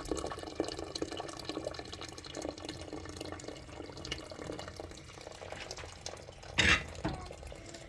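Rain falling and dripping in a steady patter of small drops, with one brief louder clatter near the end.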